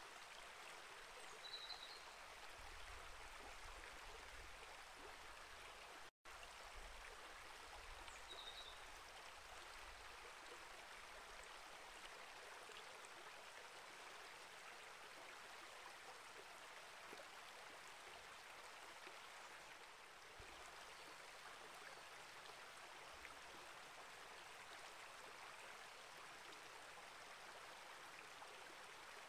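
Small rainforest creek flowing over rocks, a steady faint rush and trickle of water. Two brief high chirps cut through it, one about two seconds in and one about eight seconds in, and the sound drops out for an instant about six seconds in.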